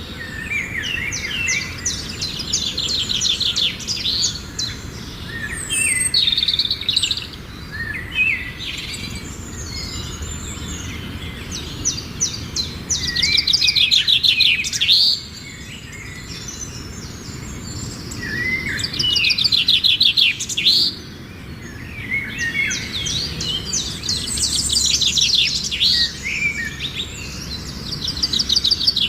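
Songbirds singing, with bursts of fast, rapidly repeated trilled notes recurring every few seconds and shorter chirps between them.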